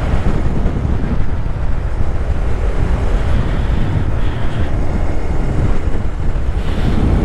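Wind buffeting the microphone in a loud, steady rumble while riding a Honda Grom motorcycle at speed, with the bike's small engine running underneath.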